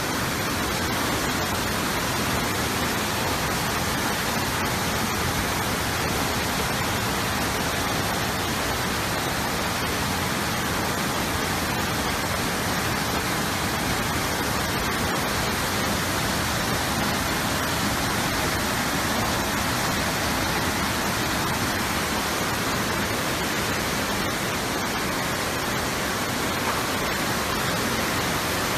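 Floodwater flowing fast with heavy rain, a steady, even rush of water with no break.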